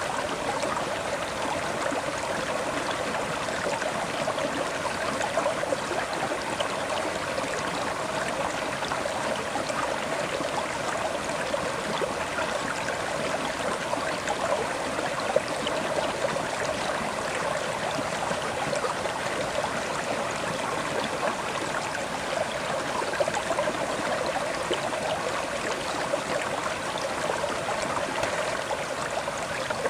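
River water flowing steadily over stones, a continuous babbling and trickling.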